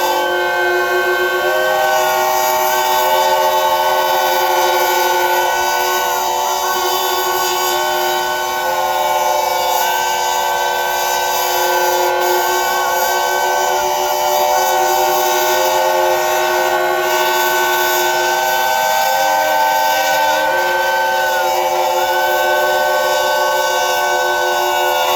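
A chorus of narrow-gauge steam locomotive whistles blowing together in a whistle-off: several steady whistle notes at different pitches overlapping, with individual whistles cutting out and sounding again.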